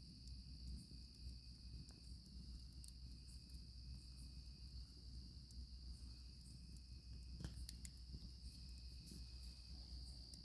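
Crickets trilling steadily in a continuous high pitch, with scattered sharp crackles and pops from a campfire, one a little louder about seven seconds in.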